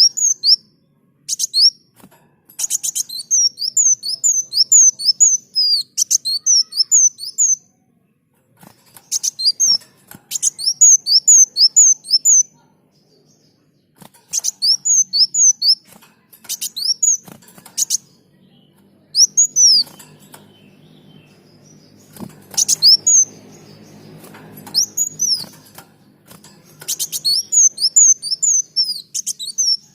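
Kolibri daun, a small sunbird, singing: phrases of rapid, high-pitched chirping notes, several a second, broken by short pauses.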